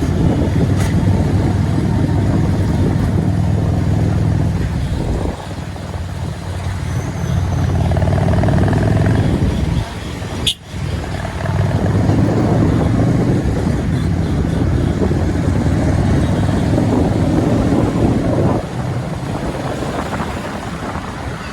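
Motorcycle running along a highway with rushing air and road noise. The sound drops back briefly about five seconds in, again around halfway, and once more near the end.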